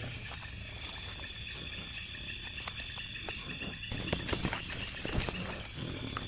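Night insects, crickets, shrilling steadily in several high pitches at once, with a scatter of short clicks and knocks in the second half.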